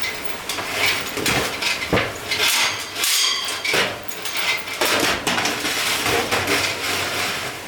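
Hard metal objects clanking and knocking together in an irregular clatter, with a brief metallic ring about two and a half seconds in.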